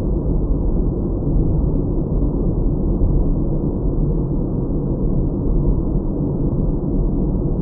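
Steady low rumble of a car being driven, road and engine noise picked up inside the cabin by a dash cam.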